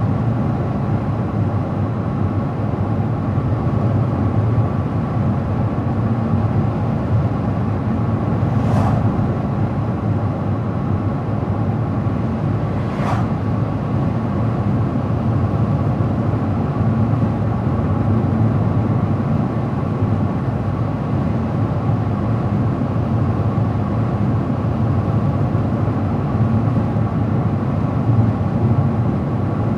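Car driving along a road: steady tyre and engine noise, with two brief clicks, one about nine seconds in and one about four seconds later.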